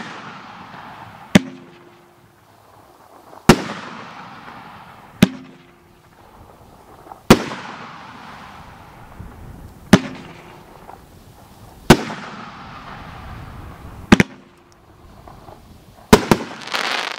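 Consumer fireworks cake firing shot after shot: sharp bangs about every two seconds, each followed by a fading hiss of sparks, ending in a burst of crackling.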